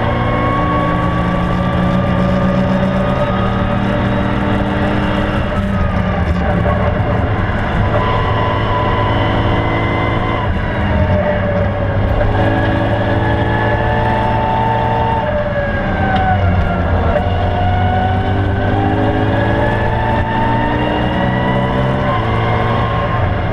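BMW E92 M3's V8 engine heard from inside the cabin while the car is driven hard on track. The engine note climbs under acceleration and drops at gear changes and braking, several times over, with road and tyre noise underneath.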